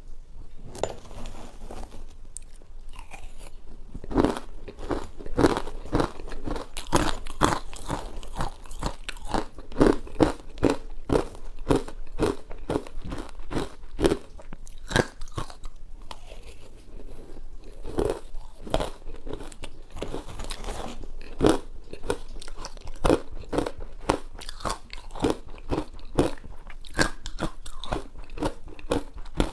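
Ice being bitten and chewed close to the microphone: repeated sharp crunches, several a second.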